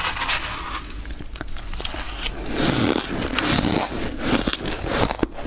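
Freezer frost being bitten and chewed close to the microphone: dense, irregular crunching and crackling, fuller and louder about halfway through.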